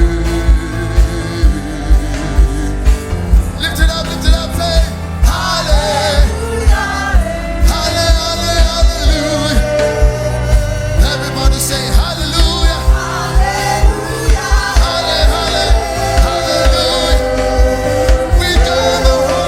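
Live gospel worship music: voices singing over a band with a steady beat, about two thumps a second.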